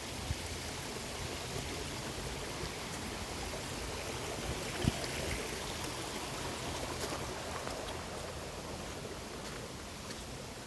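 Steady outdoor rushing noise, with a few faint knocks, the strongest about five seconds in.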